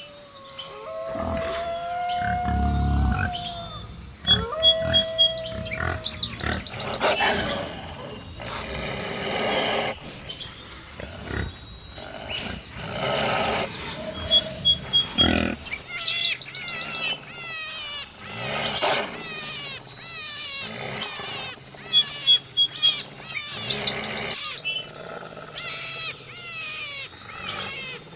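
A changing succession of wild animal calls: low calls mixed with quick, high bird chirps and sweeps, and a few longer held calls near the start.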